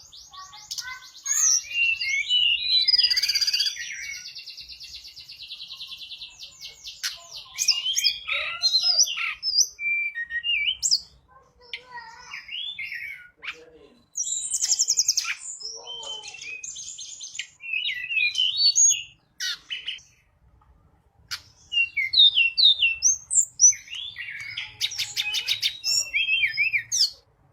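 Tledekan gunung songbird singing busily, a mix of high rapid trills and varied chirping phrases broken by short pauses.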